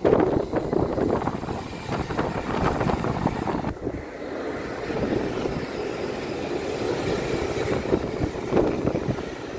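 Passing trains running over the rails: a two-car diesel multiple unit for the first few seconds, then, after a sudden break, a long Intercity Express Train running by with a steady rumble.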